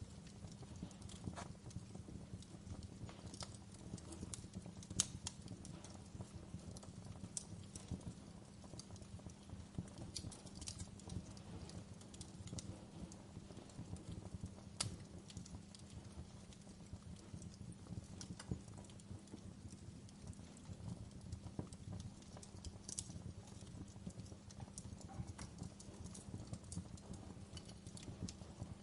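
Wood fire burning in a fireplace: a steady low rumble with irregular crackles and pops, the two loudest pops about five and fifteen seconds in.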